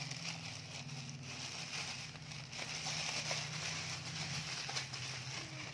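Rustling and crinkling over a steady low hum, with a few faint ticks.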